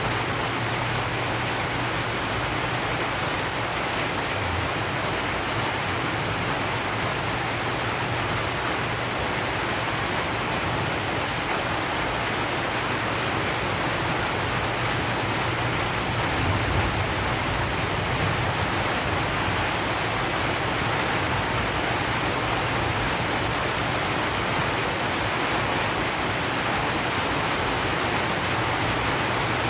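Steady rain drumming on a zinc sheet roof, an even, unbroken hiss.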